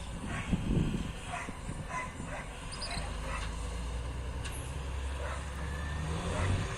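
A dog barking several times in short bursts, then a low steady engine drone that carries on through the rest.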